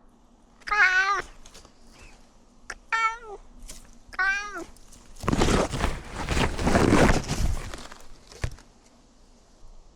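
Domestic cat meowing three times in short calls, followed by a few seconds of loud rustling noise.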